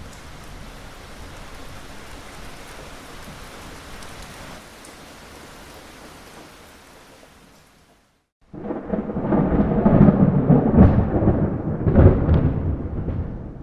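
Steady rain hiss that fades out, a brief silence, then a sudden loud rolling thunderclap about eight and a half seconds in, rumbling with two heavy peaks before easing off.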